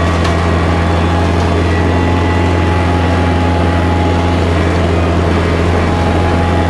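Kubota tractor's diesel engine running at a steady speed, a constant low drone.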